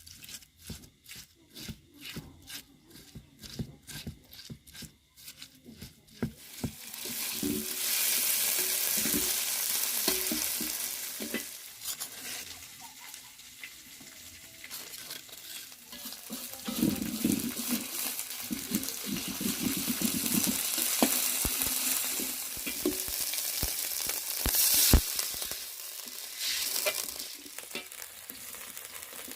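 A run of quick, evenly spaced knocks, then food going into hot oil and sizzling loudly from about six seconds in. A spatula stirs and scrapes the pan while it fries, with one sharp clack near the end.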